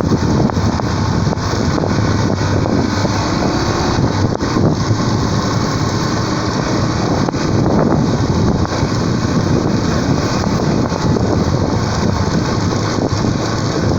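Motorcycle engine running while riding, mixed with heavy wind noise buffeting the microphone.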